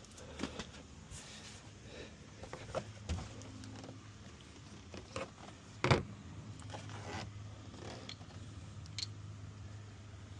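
Hand tools and metal parts clicking, scraping and clinking at irregular intervals during work on a starter, with one sharper knock about six seconds in.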